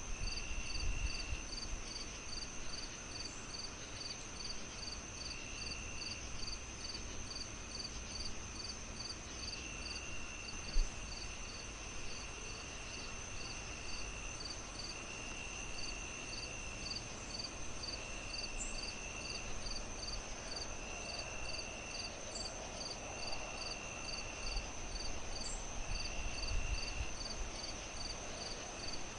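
Crickets chirping in a steady rhythm, about two chirps a second, with a continuous high trill and longer trills that come and go, over a low, even fireplace hiss. A single sharp pop about eleven seconds in.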